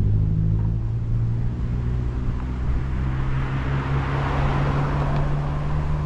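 A motor vehicle's engine running steadily close by, a low hum that holds its pitch. A rush of noise swells about halfway through and eases near the end.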